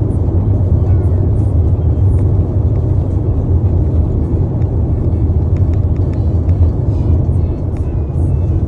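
Steady, loud low rumble of a moving vehicle as heard from inside it.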